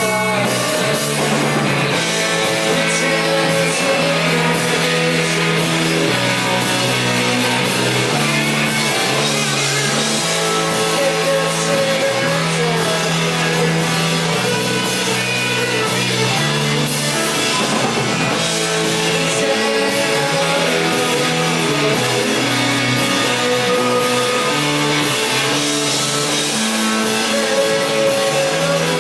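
Rock band playing live: guitars over a drum kit in an instrumental passage with no singing, the music continuous and loud.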